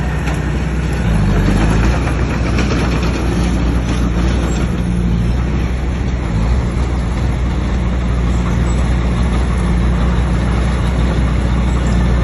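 Bulldozer's diesel engine running steadily under load, a loud low rumble with a constant clattering noise over it.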